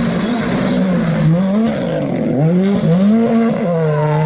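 Ford Fiesta R5 rally car's 1.6-litre turbocharged four-cylinder engine revving hard and falling back through gear changes and lifts, with the engine note dropping sharply a little past two seconds in before climbing again.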